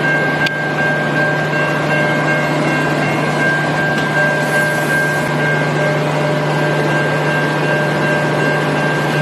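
Diesel locomotives idling at a standstill: a steady low engine hum with a constant high-pitched whine over it.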